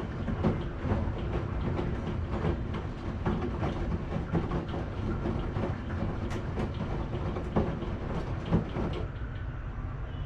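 Washing machine running: a steady low rumble with irregular knocks and clicks as the drum turns. About nine seconds in, the sound turns duller and softer.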